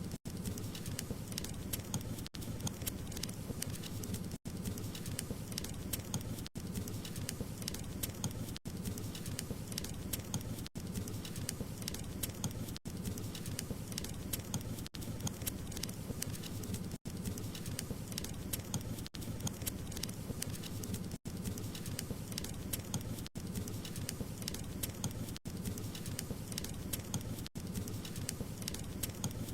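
Wood fire crackling steadily: many small sharp pops over a low steady rush, broken by a very brief dropout about every two seconds.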